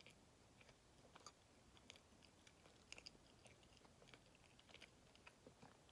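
Faint chewing of a soft Kamome no Tamago sweet, a thin coating around white bean-paste filling: scattered small wet mouth clicks and smacks, the clearest about three seconds in.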